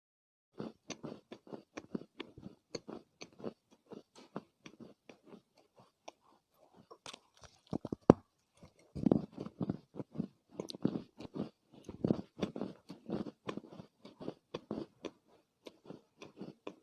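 Soft chunks of Chinese loess being bitten and chewed, a close run of small dry crunches. A single sharp snap comes about eight seconds in, with denser, heavier crunching after it.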